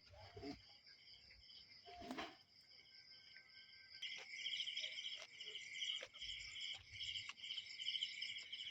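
Crickets chirping together in a steady high-pitched chorus, with a louder pulsing trill joining about four seconds in.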